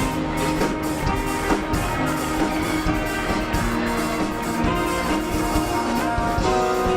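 Live circus band music with a steady drum beat and sustained instrument chords.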